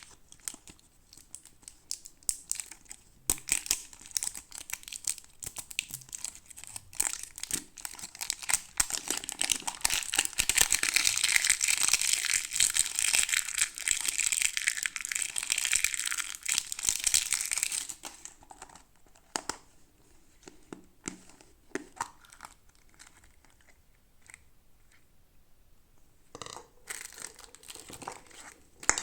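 Plastic toy packaging handled and torn open, crinkling and tearing with scattered clicks. A long, dense stretch of crinkling in the middle is the loudest part, followed by light, sparse taps and clicks.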